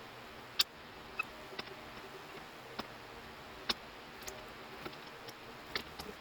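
Irregular sharp clicks and light taps, about ten of them spread unevenly, the loudest about half a second in, over a faint steady hiss.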